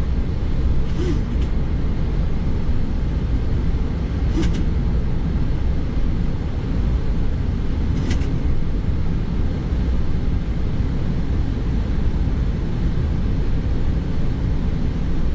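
Steady cabin noise of a light propeller aeroplane in flight: engine, propeller and airflow as a constant low rumble.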